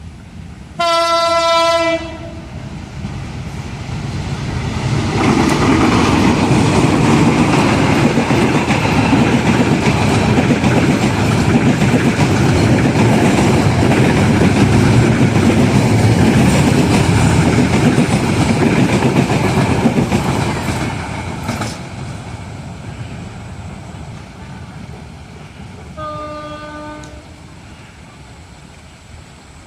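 A CC 201 diesel-electric locomotive sounds one long horn blast about a second in, then passes close by with its passenger coaches. Engine and wheels on the rails are loud for about fifteen seconds, then fade away. A second, fainter horn blast comes near the end.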